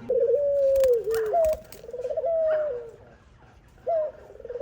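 Doves calling during a feeding at the nest: four calls, each beginning with a quick flutter and then a held tone that drops at the end. A few sharp clicks come about a second in.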